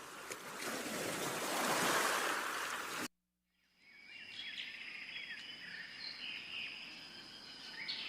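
Outdoor nature ambience: a broad rushing noise that swells, then cuts off abruptly about three seconds in. After a second of silence comes a quieter ambience with faint short chirps over a steady high-pitched hum.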